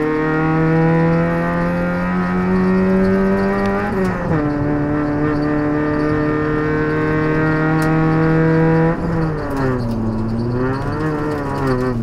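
Proton Putra race car's 1.8-litre four-cylinder engine heard from inside the cabin, pulling hard with the revs slowly climbing. About four seconds in the pitch drops sharply in an upshift, then climbs again until about nine seconds. There the driver lifts off and the revs fall and swing up and down through a downshift before settling low.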